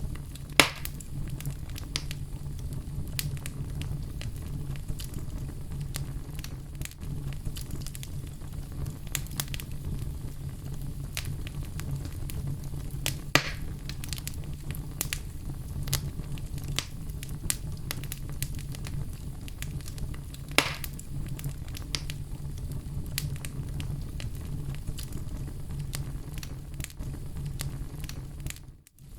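Oak logs burning in a fireplace: a steady low rumble of flames with constant small crackles and three sharp pops, the loudest right at the start. The sound drops out for a split second near the end.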